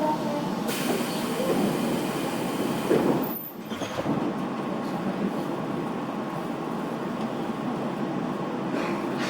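Inside a Tobu Tojo Line commuter train running between stations: a steady rumble of wheels on rail, with a short drop in the noise about three and a half seconds in.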